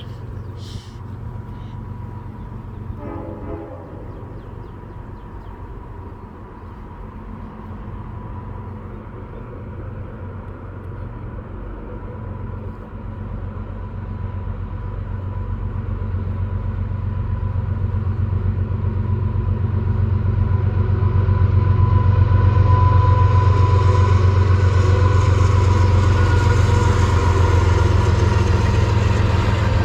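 A train approaching, its low rumble growing steadily louder over the second half and staying loud to the end. A thin, steady high-pitched tone runs through it and is strongest as the train comes closest.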